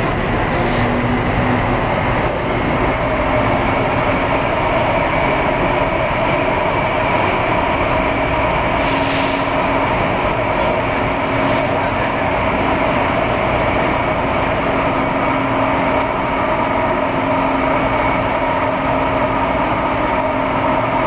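Taipei Metro C301 train running at a steady speed: a loud, even rumble of wheels and running gear with a steady whine of motor and gear tones, and two brief hisses in the middle.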